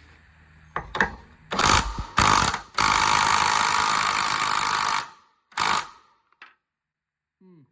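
Power tool, most likely an impact wrench, hammering at a nut on the blower's engine after a socket has been fitted: a few short bursts, then a steady run of about two seconds, then one more short burst.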